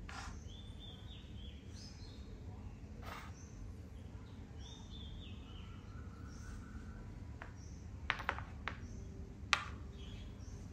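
Birds chirping in the background, a short stepped call repeated every second or two, over a low steady hum. Late on, a few sharp clicks as a plastic Thai chess (makruk) piece is picked up and set down on the board, the last click the loudest.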